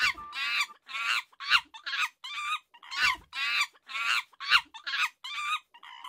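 A rapid series of short animal calls, a little over two a second, each call bending in pitch.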